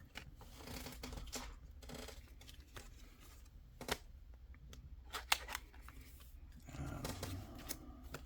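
Pokémon trading cards and their packaging being handled at close range: scattered sharp clicks and taps with short soft rustles, the loudest clicks about four and five seconds in.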